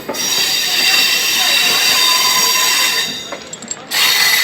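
MEMU electric train at close range: a loud rushing hiss laced with high, steady squealing tones that starts suddenly, breaks off about three seconds in and starts again near the end.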